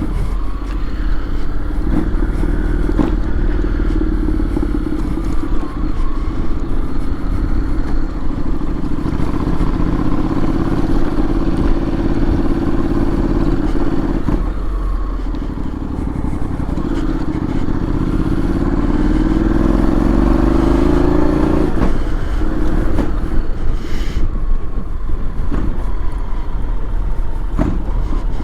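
Honda X-ADV 750's parallel-twin engine running as the scooter is ridden, over a heavy low rumble. About two-thirds of the way through, the engine note rises steadily for a few seconds as it accelerates, then drops suddenly.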